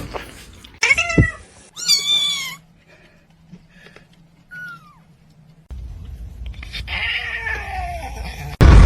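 Cat meowing: two loud, high meows about a second apart, a short faint meow a little later, and a drawn-out falling meow over background noise near the end.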